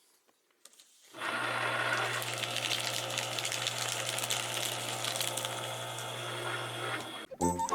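Electric paper shredder running: its motor starts about a second in with a steady low hum under a dense whirring, grinding noise, then stops about a second before the end.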